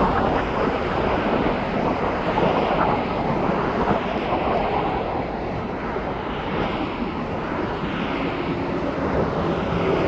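Steady jet aircraft engine noise, with wind on the microphone.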